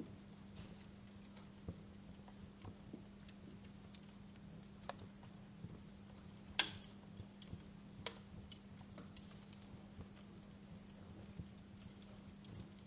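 Wood fire crackling in a fireplace: irregular small clicks and pops, with one sharper, louder pop about halfway through, over a faint steady hum.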